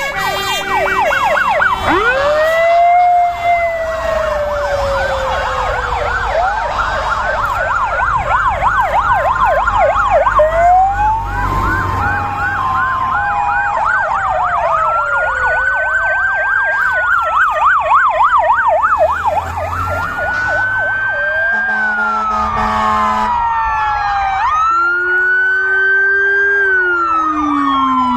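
Several fire-engine sirens sounding at once as the trucks pass in convoy: fast yelping sweeps overlapped by slower rising-and-falling wails, over a low rumble of truck engines.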